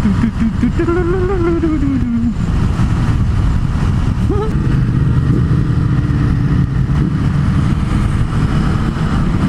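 MV Agusta Turismo Veloce 800's three-cylinder engine under way, heard with heavy wind noise. Its pitch rises and then falls about a second in, and it holds steady from about halfway through.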